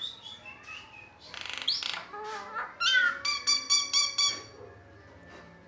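Asian pied starling (jalak suren) calling: scattered chirps, a harsh rasping note, then a quick run of about half a dozen loud, clear whistled notes.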